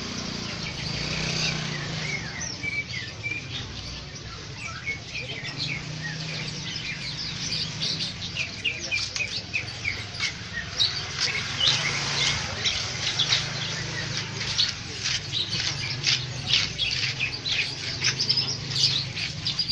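Many caged songbirds chirping and twittering together in quick short calls, growing busier about eight seconds in, over a low steady hum.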